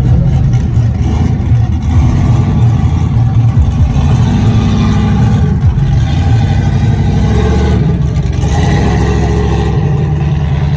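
Loud truck engine running and revving, rising in pitch a few times.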